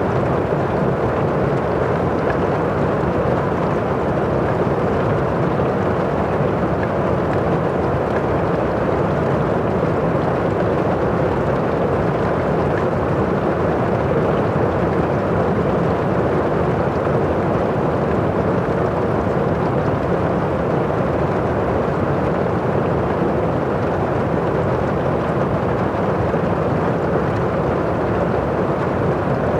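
Heavy rain falling on a roof, heard from inside the house: a steady, muffled rush with little high hiss.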